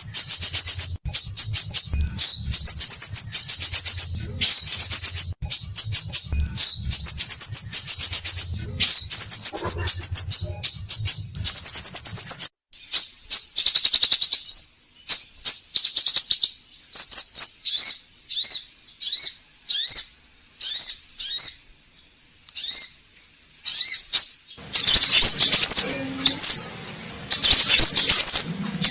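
Scarlet minivet (sepah raja) singing: loud, high-pitched twittering phrases. They are packed closely at first, break into short separate calls with gaps through the middle, and run close together again near the end.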